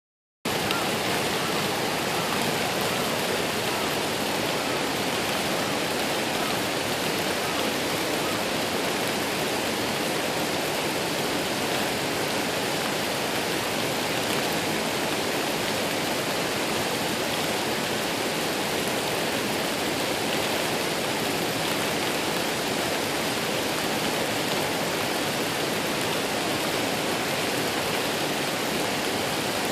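Waterfall: a steady, even rush of falling water, with no pauses or changes.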